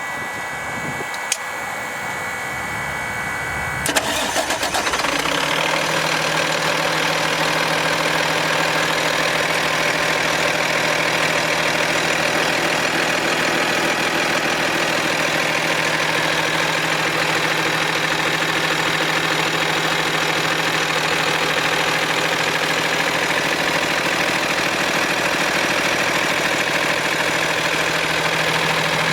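Cummins ISC diesel engine of a Freightliner M2 truck starting about four seconds in, then idling steadily. Before the start there is a quieter hum with a few clicks.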